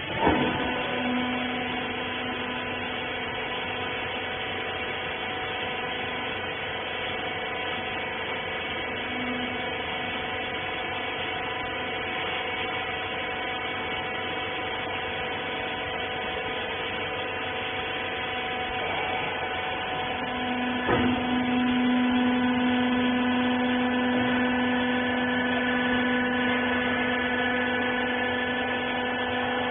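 Small rag baler's electric hydraulic pump motor running with a steady hum. It switches on with a click at the start; about 21 seconds in there is another click and the hum gets louder and deeper.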